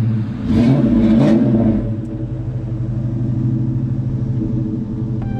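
A vehicle engine revved twice in quick succession, then settling into a steady idle.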